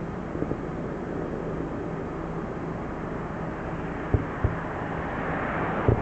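Aerial firework shells bursting in the distance: a continuous rumble of many explosions with scattered sharp booms, the loudest about four seconds in and near the end. A hiss swells over the last second.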